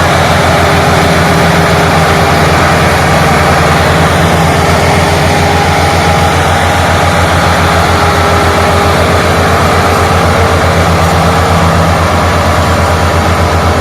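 Tractor engine running steadily with a fast, even low beat, as the tractor pulls a heavily loaded trolley.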